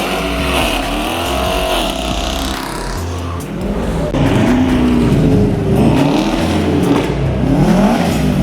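A car engine revving up and down over and over, as in drifting, with tyre squeal in the first couple of seconds. The revving gets louder about four seconds in.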